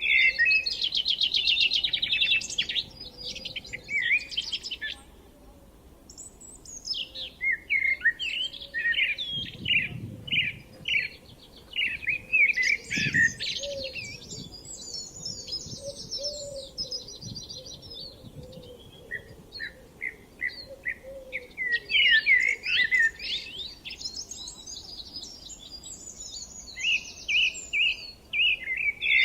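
Songbirds singing in phrases of rapid chirps and trills, one song after another with short pauses between.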